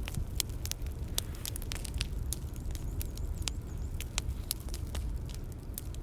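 Bonfire crackling: irregular sharp pops and snaps, a few a second, over a steady low rumble of the burning fire.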